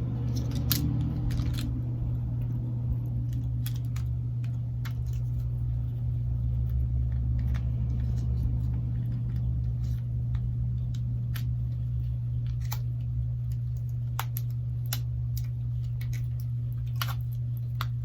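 Scattered light clicks and taps of small parts and tools being handled while a Galaxy Note 8 is put back together and its internal pieces connected, over a steady low electrical hum.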